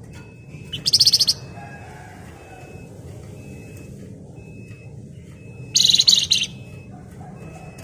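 Flamboyan songbird giving two short, loud bursts of rapid, shrill chattering trill (ngebren), about a second in and again near six seconds. Faint short high peeps repeat in between over a steady low hum.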